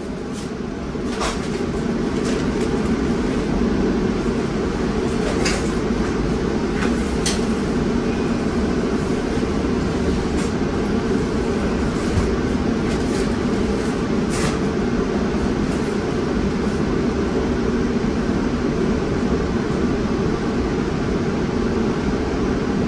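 Inside an MBTA Commuter Rail coach as the train pulls out of a station: a steady rumble of wheels and running gear that grows louder over the first few seconds as it picks up speed, with a few sharp clicks from the track.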